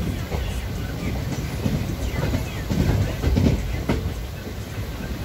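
Train running along the track, heard from aboard: a steady low rumble of wheels on rails with scattered, uneven clicks and knocks.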